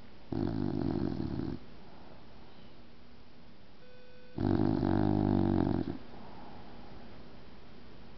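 A sleeping bulldog snoring: two long, loud snores, the first just after the start and the second a little past the middle.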